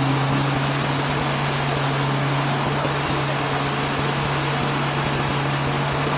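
An engine running steadily with a low hum at an even pitch, under a strong even hiss.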